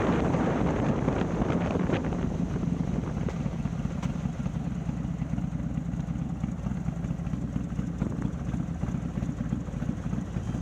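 Harley-Davidson Milwaukee-Eight V-twin, bored out to 130ci, running through a ThunderHeader exhaust, heard from onboard the motorcycle. Wind noise eases off over the first couple of seconds, and the engine settles to a steady, lower running note.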